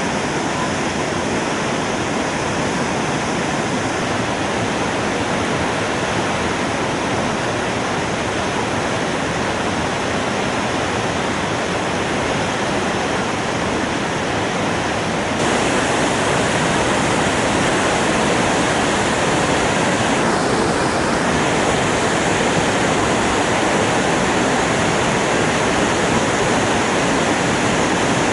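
Waterfall swollen by very heavy rain, its water falling in a steady loud rush that gets a little louder about halfway through.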